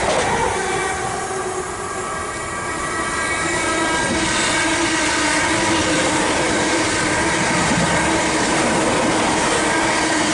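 Electric multiple-unit trains passing close at speed: first a Class 745 Stadler FLIRT, then a pair of Class 317 units, with wheel and rail noise and a steady whine. The noise dips briefly about two seconds in, then builds again.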